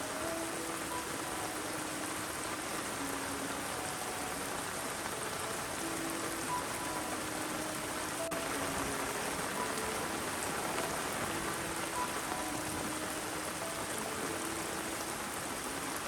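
Steady rain falling, an even hiss with no let-up. Short, soft tonal notes at scattered pitches sound now and then through it.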